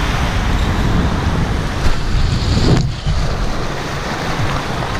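Rushing water and wind noise on the ride camera as a raft tube slides down a water-slide flume, with a brief dip in the noise just before three seconds in.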